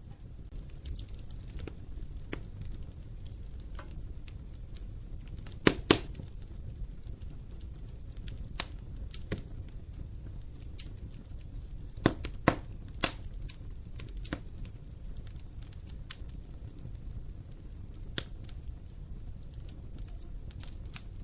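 Wood fire crackling in a fireplace: a steady low rumble of flame with scattered sharp pops, the loudest a quick double pop about six seconds in and a few more around the middle.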